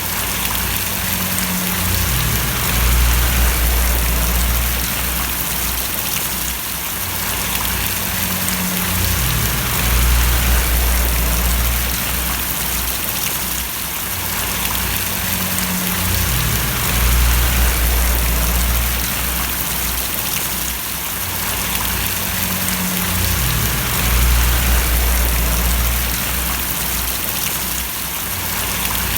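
Steady rain falling and splashing on surfaces, an even hiss, with a low rumble underneath that swells and fades about every seven seconds.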